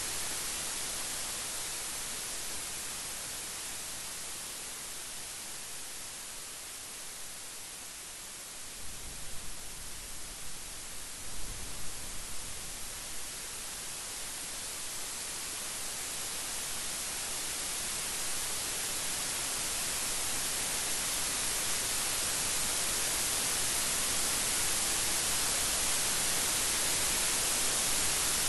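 Steady rain falling in a dense hiss, with a low, uneven rumble of thunder about nine to thirteen seconds in. The rain then swells gradually louder toward the end.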